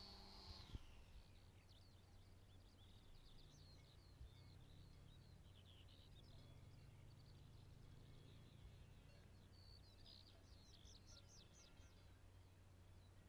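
Faint birds chirping and trilling in many short notes, with a steady low background hum. In the first second a high whine drops in pitch and fades out.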